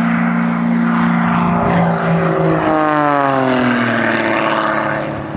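Propeller airplane flying past, its engine note dropping in pitch as it goes by, then fading near the end.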